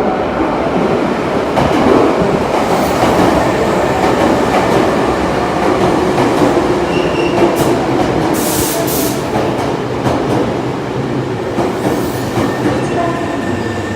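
Subway train on the Osaka Metro Sakaisuji Line running along an underground station platform, a steady loud rumble of wheels on rail with a short high hiss about eight and a half seconds in.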